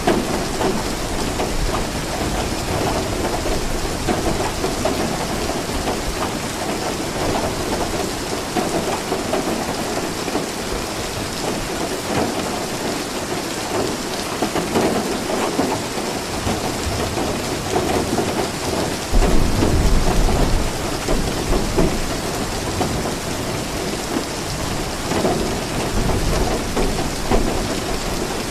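Steady rain falling, with low thunder rumbling beneath it; a louder roll of thunder comes about two-thirds of the way through.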